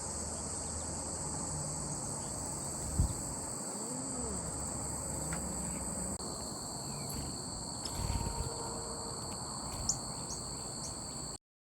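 Steady, high-pitched chorus of late-summer insects, with a second, lower trill joining about halfway through. There is a sharp thump about three seconds in, a few short high chirps near the end, and the sound cuts off suddenly just before the end.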